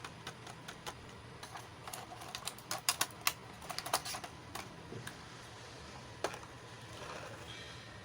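Light, irregular clicks and taps of small plastic toy pieces being handled, coming in a quick flurry around the middle, with a lone click near the end.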